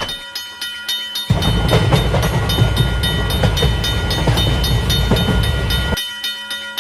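Train pass-by sound effect: a heavy low rumble with clatter starts abruptly about a second in and cuts off suddenly near the end, over a rhythmic ringing.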